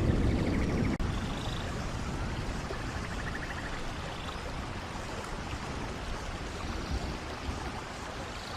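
Steady rush of a waterfall's running water, with rain. A low rumble dies away over the first second and cuts off abruptly about a second in. A few faint brief trills come from high up.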